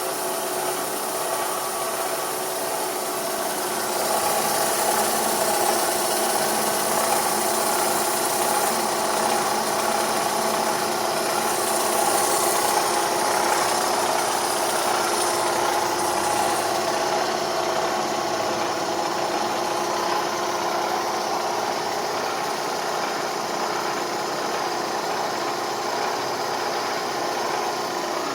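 Opel Z16XE 1.6-litre 16-valve four-cylinder engine running, with a rhythmic rattling and clattering.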